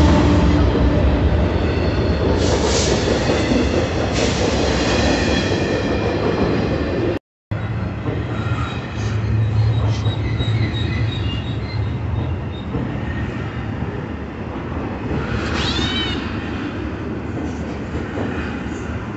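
BNSF intermodal freight train rolling past at close range: a steady rumble and hiss of steel wheels on rail as flatcars carrying trailers and containers go by, with brief wheel squeals, the clearest about sixteen seconds in. The sound drops out for a split second about seven seconds in.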